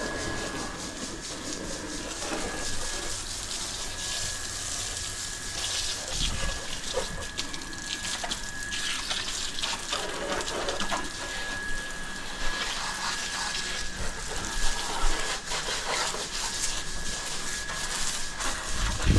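Water spraying and splashing on a motorbike while it is washed, a rushing hiss that rises and falls, with a steady high whine running under it.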